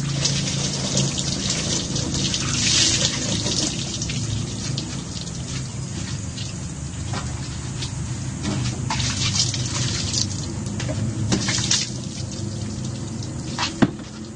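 Water splashing and dripping as a motorcycle is rinsed down by hand, in uneven pours, with a sharp knock near the end.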